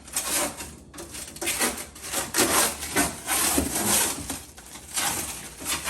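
Packing material being pulled off a new refrigerator: a run of scratchy rubbing and rustling strokes, uneven in loudness.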